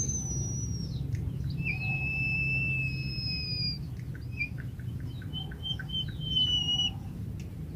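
White-headed munia (emprit kaji) singing its long whistle: a thin whistle held steady for about two seconds, then a run of short clicking notes and a falling whistle near the end. A steady low hum sits underneath.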